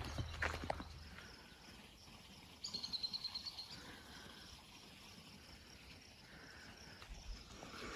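A few footsteps on a dirt trail at the start, then a bird's rapid trill of high chirps about three seconds in, lasting about a second, over quiet outdoor background.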